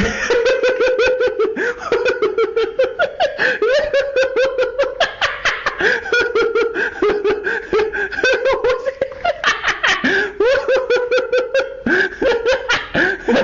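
A person laughing hard and without let-up in quick repeated bursts, about four to five a second, with a short pause for breath near the end.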